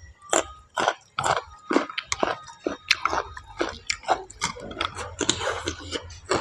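A person chewing mushrooms close to the microphone, in a steady rhythm of about two chews a second.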